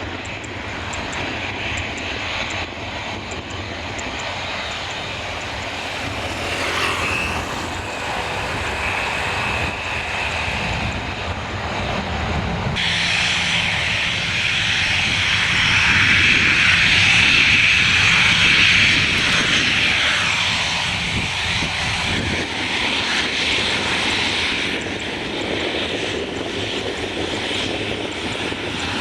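Airliner engines running as an aircraft passes near the runway, a steady rushing roar with a faint high whine early on, which turns sharply louder a little before halfway and eases off again in the last few seconds.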